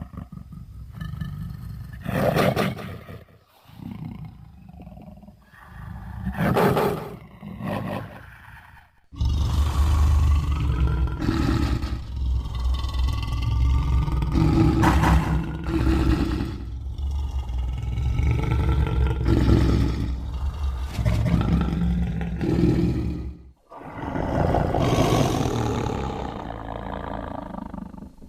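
Sound-effect roars and growls of a large theropod-like monster, the burrunjor. Two short roars come in the first seven seconds; then, about nine seconds in, a long deep rumbling run of growls and roars begins, breaks off briefly near the end, and is followed by one more roar.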